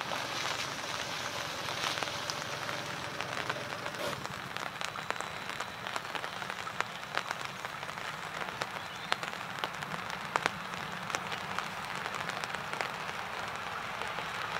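Rain falling: a steady hiss with scattered sharp ticks of drops landing close by.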